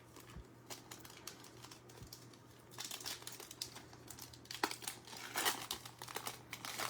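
Foil trading-card pack wrappers crinkling and tearing, with cards clicking and sliding in hand as they are pulled out and sorted. The handling gets busier about three seconds in.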